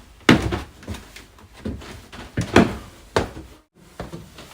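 A series of irregular knocks and thuds, about seven over four seconds, each with a short ringing tail.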